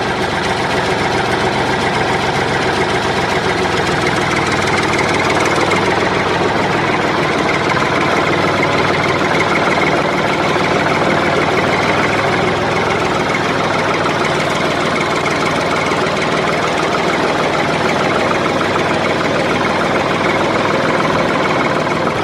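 Tractor engine sound effect: an engine running steadily with a rapid, even knock.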